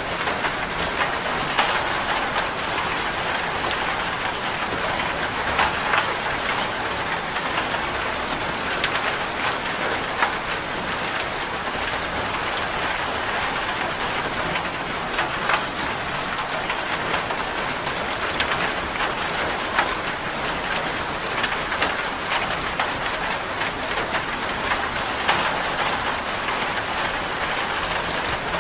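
Steady rain falling, an even patter with scattered louder drops.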